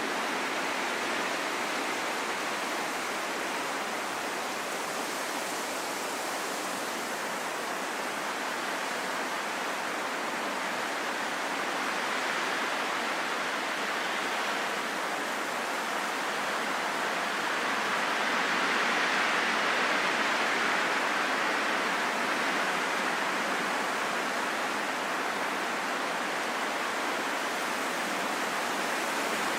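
Steady heavy rain falling in a forest: a dense, even hiss that swells a little about two-thirds of the way through.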